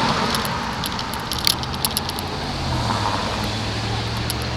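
Light rattling and jingling clicks over steady road and wind noise from a bicycle ride, with a motor vehicle's low engine hum coming in a little past halfway.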